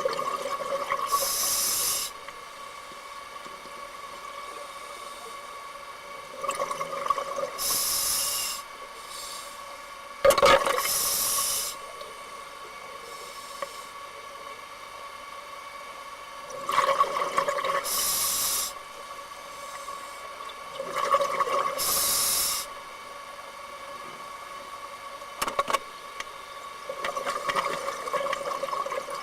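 Scuba diver breathing through a regulator underwater: six breaths, each a rush of exhaled bubbles and a hissing inhale, about every five seconds.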